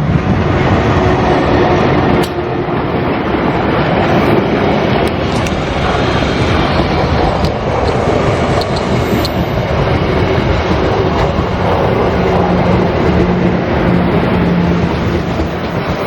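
Passenger train rolling slowly past close by: a steady rumble of wheels on the rails, with a few sharp clicks.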